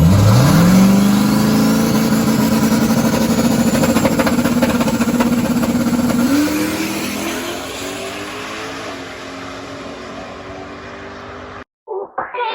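Race car engine revving up sharply and holding at high revs, rising once more about six seconds in, then fading away. The sound cuts off abruptly near the end.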